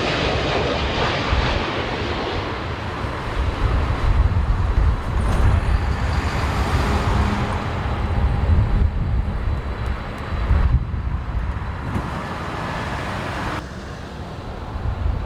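Jet airliner engines on landing approach, heard through heavy wind buffeting the microphone, which adds an uneven low rumble. The jet noise is strongest at the start, thins over the following seconds and drops suddenly near the end.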